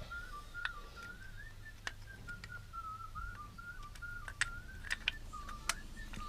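A person whistling a slow, wandering tune. Sharp small clicks of metal brake parts being handled cut in a few times, loudest in the second half.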